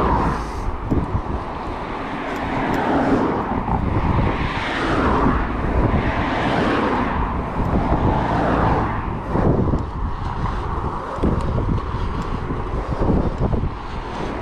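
Wind buffeting the microphone over the rumble of a gravel bike's tyres rolling along, with frequent small knocks and rattles from the bike.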